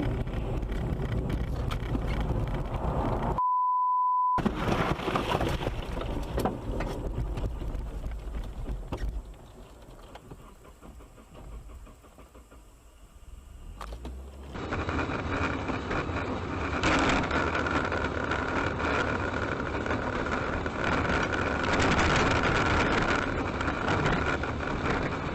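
Car driving noise, steady engine and road sound heard from inside a moving car, over several spliced clips. About three and a half seconds in it cuts to a steady beep tone lasting about a second.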